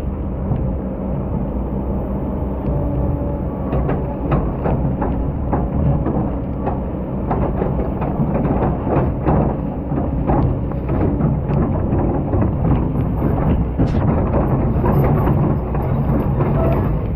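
Excavator engine running steadily while digging sand, with many short clicks and knocks over it from about four seconds in.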